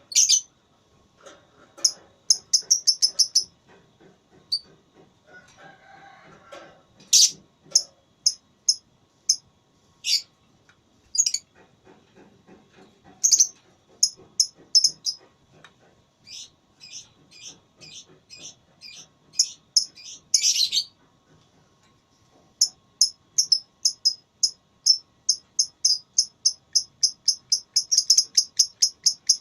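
Lovebird chirping in fast runs of sharp, shrill notes, with a long unbroken run at about four chirps a second near the end: the rapid chattering 'ngekek' song that Indonesian lovebird keepers prize.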